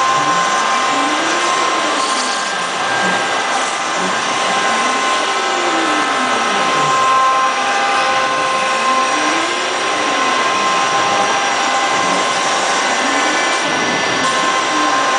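CNC router carving a 3D mold: the spindle runs with a steady high whine over cutting noise, while the axis drive motors sweep up and down in pitch every couple of seconds as the head moves back and forth.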